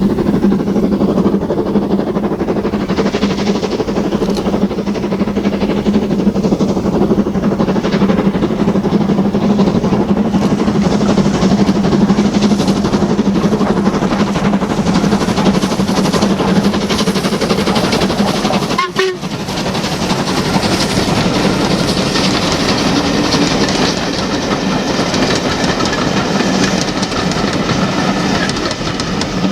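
A steam-hauled train passing close by, its wheels clattering over the rail joints, with a steady low hum beneath. The sound breaks off for an instant about two-thirds of the way through, then carries on.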